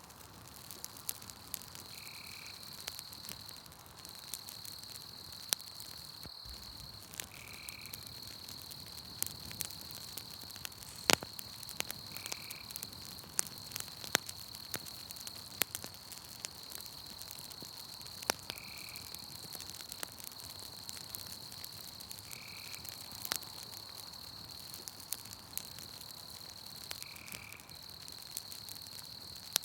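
Wood campfire crackling with scattered sharp pops, over a steady high-pitched insect trill. A short call repeats about every five seconds.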